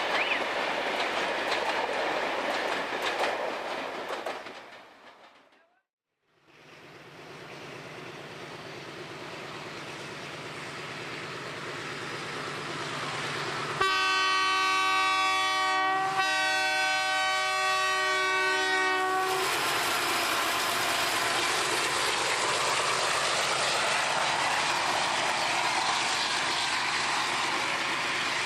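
Train noise fades out to a cut. A diesel locomotive then approaches with a low engine hum and sounds its multi-note air horn, a chord of several tones held for about five seconds with a brief break. The train then passes with steady wheel and engine noise.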